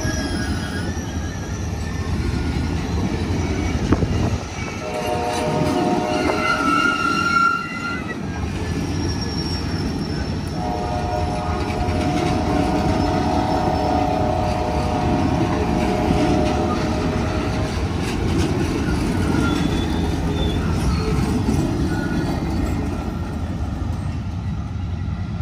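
Passenger cars of the Kansas City Southern business train rolling past at speed, wheels clattering steadily on the rails. The locomotive's multi-note horn sounds from up the line, a shorter blast and then a long one, about seven seconds.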